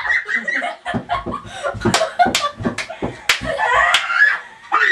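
Young girls' voices laughing and calling out, with several sharp smacks between about two and four seconds in.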